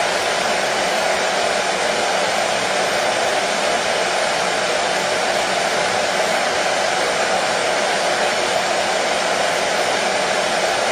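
Hair dryer running continuously: a steady, even rushing of air and motor noise that does not change, played as white noise to soothe a colicky baby to sleep.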